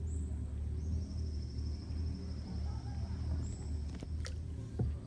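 Mangrove forest ambience: a thin, high pulsing trill from wildlife over a steady low rumble, with a few light knocks near the end.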